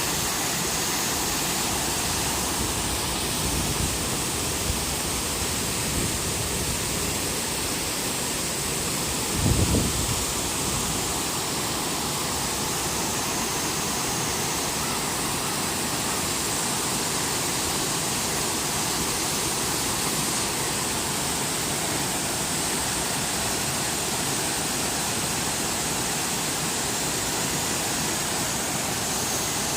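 Waterfall pouring steadily: a constant, even rush of falling water, with one brief low thump a third of the way through.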